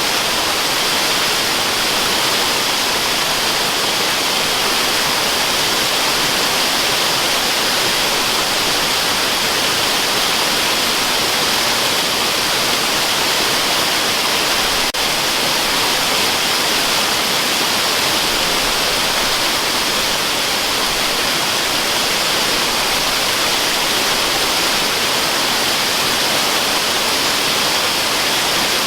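Waterfall rushing in a steady, unbroken hiss, bright and thin with little low rumble. A faint tick and a brief dip come about halfway through.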